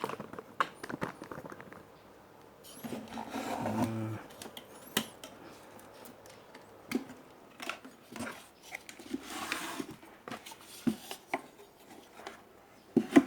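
Small tools and parts being handled on a workbench: scattered clicks, taps and light metallic knocks, with a louder pair of knocks near the end.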